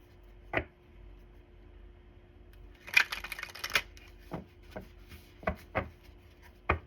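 Tarot cards being handled. A single sharp snap comes first, then a dense rustle of cards lasting under a second about three seconds in, then a run of five or six separate card snaps and taps.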